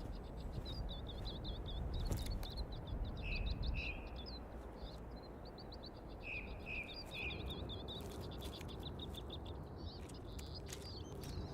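Birds calling: long runs of rapid, high chirps, with a few lower, shorter falling notes now and then, over a low, even background rumble.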